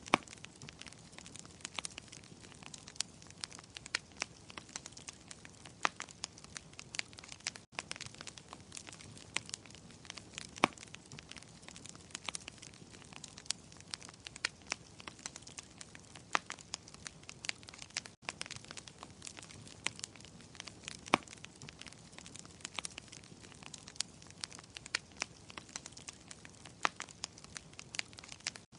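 Wood fire in a fireplace crackling, with frequent sharp pops and snaps over a low steady hiss.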